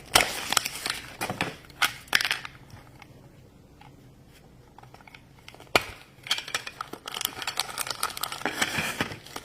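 Toy packaging being handled and torn open: crinkling and tearing with a few sharp clicks at first, a quieter pause in the middle, then a sharp snap and steady crinkling near the end.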